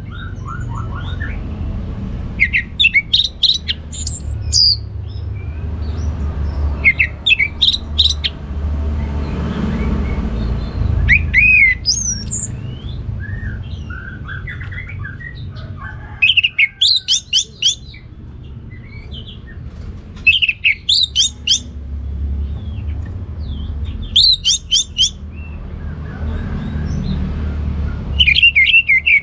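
Orange-headed thrush singing: short, rapid phrases of varied high, quick notes, repeated every few seconds, over a low steady background rumble.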